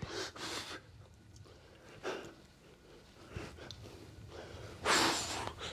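A man breathing hard from exertion during a weight-training workout, with sharp noisy exhales near the start, about two seconds in, and a louder one near the end.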